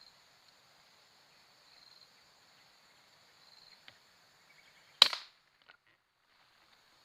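A single shot from a Canon 747 Long Bold PCP air rifle fitted with an Elephant GL 700 silencer, about five seconds in: one sharp crack that dies away within a fraction of a second. Under it is a steady high insect buzz.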